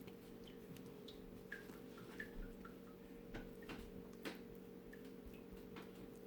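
Quiet room with a steady faint hum and a scattering of soft, irregular clicks and taps.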